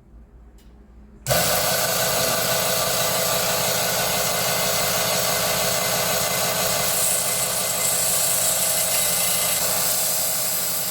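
Power tool grinding the corners of a titanium plate to chamfer them and remove burrs, a steady high-pitched grinding with a hum underneath. It starts suddenly about a second in.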